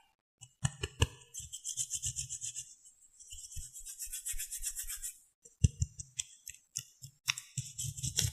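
Makeup and makeup tools handled close to the microphone: a few sharp clicks and taps near the start, about two thirds of the way in and near the end, between long stretches of soft brushing or rubbing.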